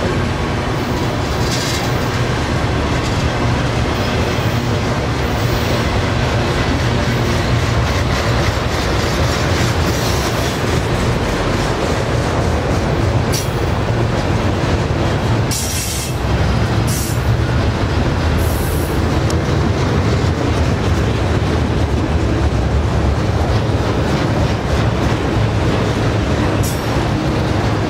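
Autorack freight cars rolling past close by: steady low noise of steel wheels running on the rails, with a few brief high-pitched sounds now and then.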